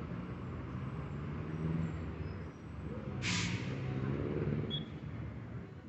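A heavy vehicle's engine running with a low rumble, and a short sharp hiss of air, like an air-brake release, about three seconds in.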